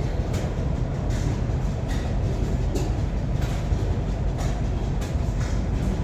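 A vintage engine running with a steady low rumble, and a hissing beat coming in about once a second.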